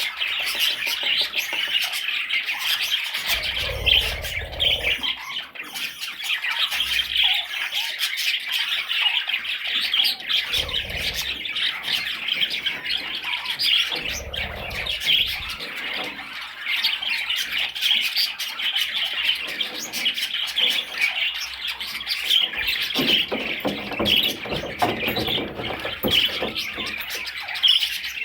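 Budgerigar chattering and warbling without pause, a dense stream of rapid chirps and squawks.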